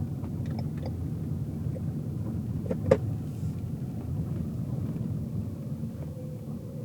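Car cabin sound while driving: a steady low rumble of engine and road noise, with one sharp click or knock about three seconds in.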